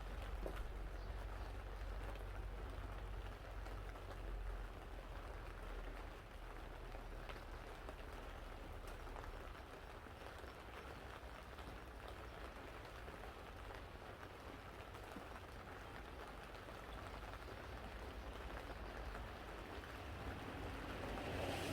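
Steady, even hiss with a low hum underneath and a few faint clicks.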